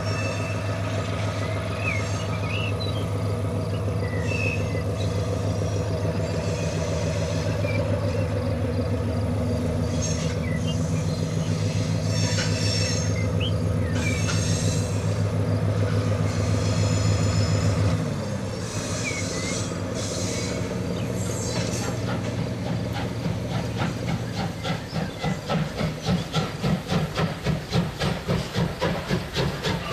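HO scale model trains running with locomotive sound: a steady engine hum that drops in pitch about two-thirds of the way in. Near the end a rhythmic chuffing starts and quickens, with faint wheel squeaks and hiss.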